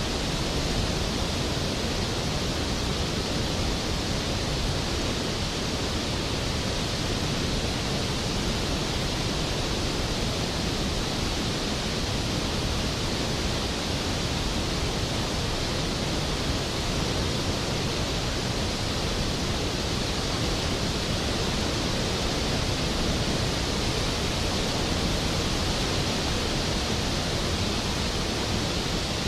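Skógafoss waterfall: a large waterfall crashing steadily into its plunge pool, a dense, even rush of water.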